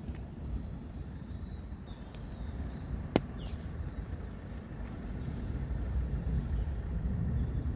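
Low, steady rumble of distant road traffic, with one sharp click about three seconds in and a few faint bird chirps.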